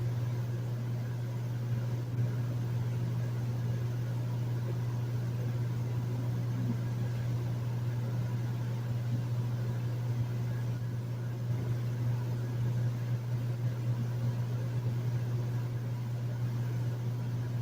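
Hotel room air conditioner running steadily, a constant low hum with a soft hiss of air over it.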